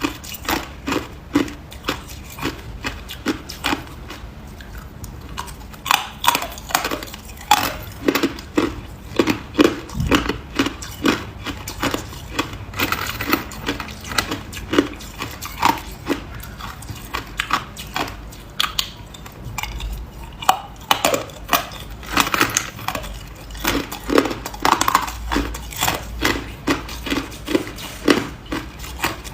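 Ice being bitten and chewed close to the microphone: a long run of sharp, crisp crunches, several a second, with short pauses.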